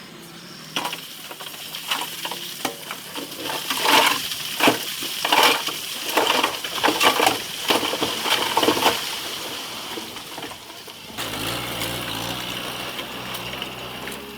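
Stones clattering and crunching with many sharp knocks, as rock is pushed by a bulldozer. About 11 seconds in this gives way abruptly to the bulldozer's diesel engine running steadily.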